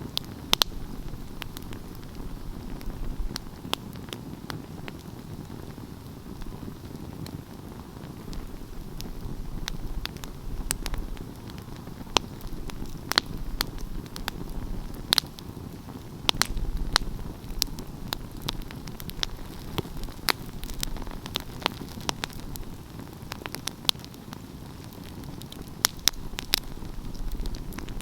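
Wood fire burning with a steady low rush of flame and irregular sharp crackles and pops, a few of them louder snaps.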